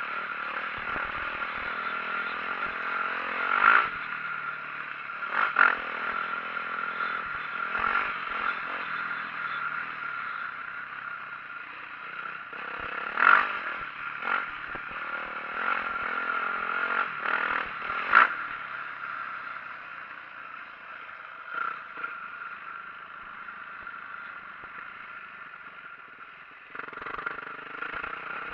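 2004 Yamaha YZ450F four-stroke single-cylinder dirt bike engine revving up and backing off while riding, with sharp knocks and clatter from the bike over rough ground. It drops to a quieter stretch past the middle, then the engine picks up again near the end.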